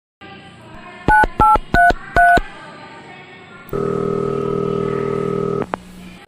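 Telephone touch-tone dialing: four quick two-note keypad beeps about a second in. Then a steady ringing tone on the line for about two seconds while the call goes through.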